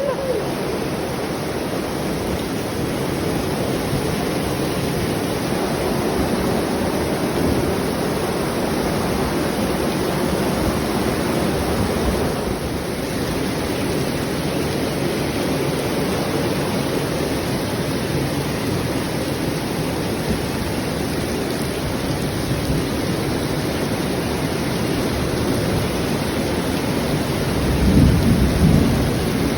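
Heavy rain pouring down in a thunderstorm: a steady, even hiss, with a short louder low rumble near the end.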